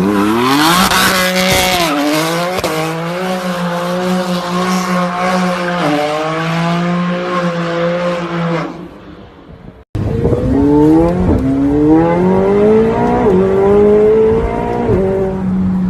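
Car engine revved hard and held at high revs for a burnout, with tyres squealing and spinning, fading away after about nine seconds. After an abrupt cut, another car accelerates hard, its engine note climbing and dropping back at each of about three gear changes.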